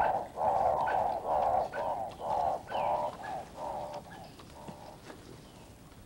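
A bird calling in a long series of repeated hoarse notes, about two a second, that grow quicker and fainter and die away about four seconds in.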